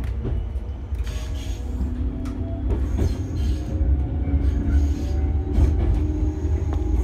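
A train running, heard from inside the car: a steady low rumble with irregular clicks as the wheels pass over the track.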